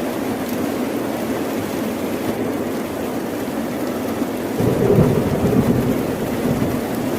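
Steady rain, with a roll of thunder that breaks in suddenly a little past halfway, rumbles low for about two seconds and fades back into the rain.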